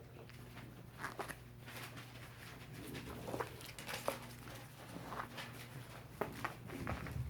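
Five-week-old puppies moving about, making faint scattered taps and rustles, over a low steady hum.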